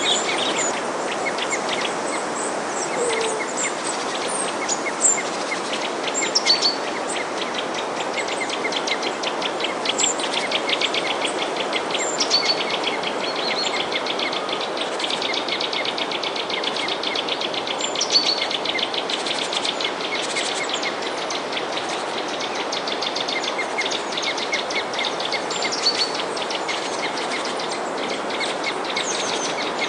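Many small birds chirping and trilling over a steady background hiss.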